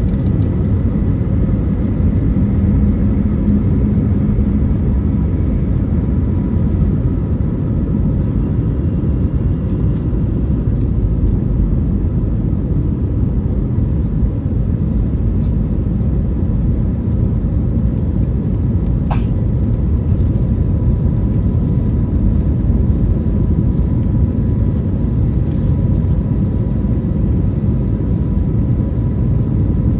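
Steady in-flight cabin noise of an Airbus A321neo: a loud engine and airflow rumble with a faint, steady engine hum above it. A single short tick about two-thirds of the way through.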